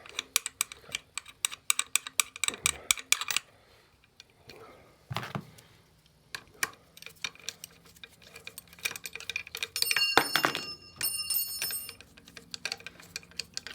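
Rapid clicking of a ratchet wrench working bolts on a motorcycle engine cover, in runs with pauses between them, and a short metallic ringing clink about ten seconds in.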